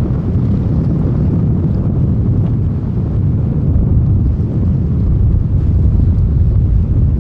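Low, steady rumble of the Airbus A340-300's four CFM56 jet engines on departure, heavily mixed with wind buffeting the microphone.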